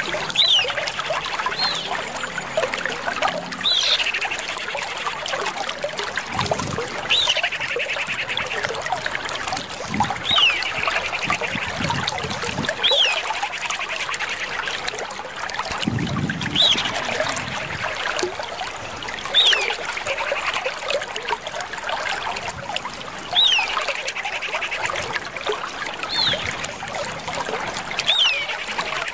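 Common iora calling over and over, about every three seconds: each call a sharp high whistled note that sweeps up and falls, then a short rapid buzzy trill, over a steady background hiss.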